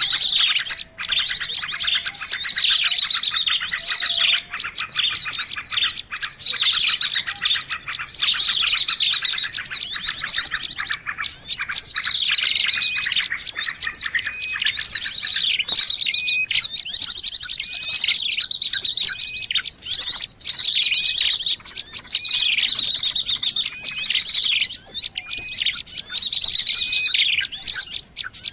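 Many small songbirds chirping and twittering densely and without pause, high-pitched with similar phrases repeating over and over: a bird-lure recording meant to draw small birds in.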